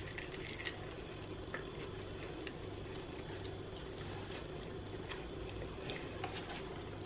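Faint chewing of a fried chicken wing, its still-crisp coated skin giving small scattered crunchy clicks, over a steady low hum.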